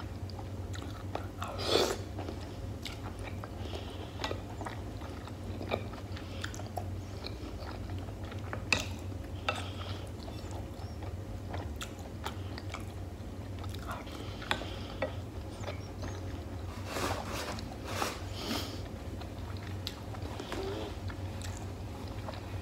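Close-miked chewing and wet mouth sounds of someone eating beef stewed with tomato, with many short sharp clicks, the loudest about two seconds in and a cluster near the end. A steady low hum runs underneath.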